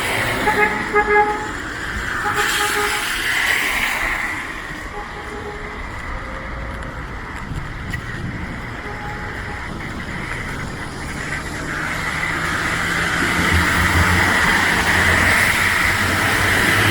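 Street traffic: a vehicle horn gives several short toots in the first few seconds over a steady hiss of passing traffic, and an engine drawing closer grows louder near the end.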